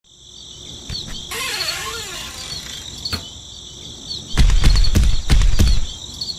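Crickets chirping steadily, with a couple of light clicks. About four seconds in, a tractor engine starts and chugs loudly in a low, pulsing rhythm.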